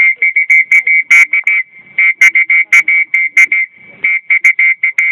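A high-pitched whistle blown at one steady pitch in many quick, uneven short toots, held a little longer twice along the way.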